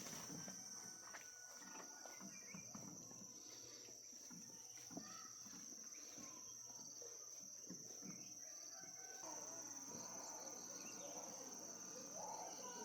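Faint outdoor ambience dominated by a steady high-pitched insect drone, crickets or cicadas. Scattered soft knocks sound through the first part, and busier chirping calls join from about nine seconds in.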